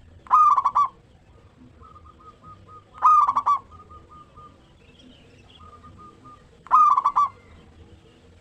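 Zebra dove (perkutut) cooing: three loud, rolling coo phrases about three and a half seconds apart, each lasting about half a second. Fainter, shorter runs of coo notes come between the phrases.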